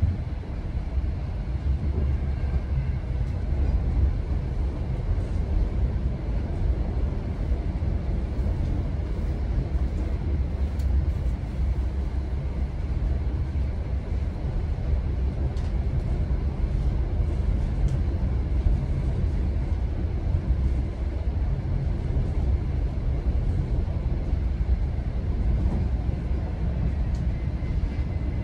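GO Transit commuter train running along the line, heard from inside the coach as a steady low rumble with a few faint clicks from the wheels and car.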